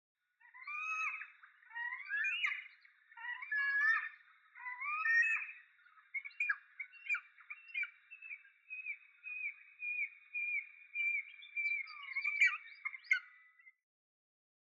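Wedge-tailed eagle calling: a run of thin, bending yelps and whistles, then an even series of short whistled notes, about two a second, from about six seconds in.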